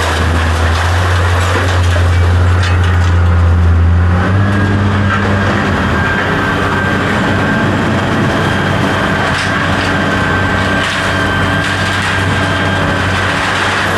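A steady low engine hum, heaviest for the first four seconds, with a few faint knocks.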